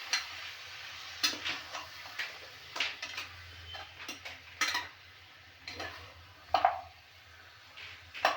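A spoon scraping and knocking against a pan as chicken pieces are stirred while frying in plain oil, in irregular clinks over a faint sizzle that grows quieter toward the end.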